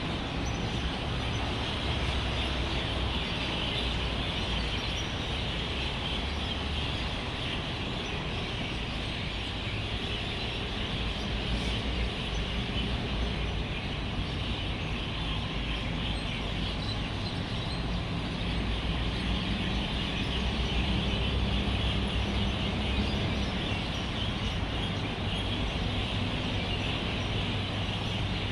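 Dense, continuous chatter of a large flock of birds gathering to roost, over the steady rumble of road traffic.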